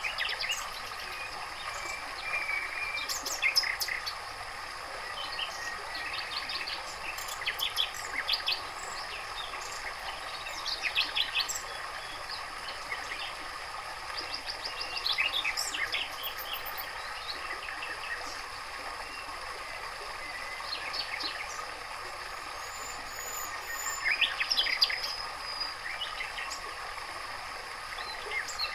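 Aviary songbirds, canaries among them, singing in repeated bursts of quick chirps and trills over a steady background hiss.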